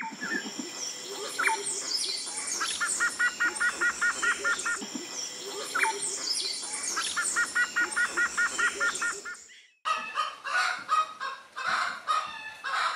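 Bird calls and chirps, including a fast run of evenly repeated trill notes; the same few-second stretch plays twice, like a looped recording. After a sudden cut about ten seconds in, different bird calls follow.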